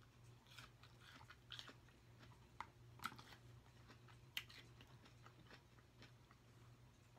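Faint close-miked chewing of fruit: irregular soft wet mouth clicks and small crunches, two a little louder about three and four seconds in.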